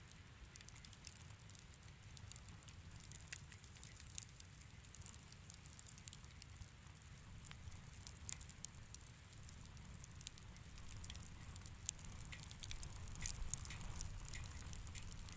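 Wood fire crackling in a fireplace: scattered small snaps and pops over a low rumble, with one sharper pop about twelve seconds in and busier crackling near the end.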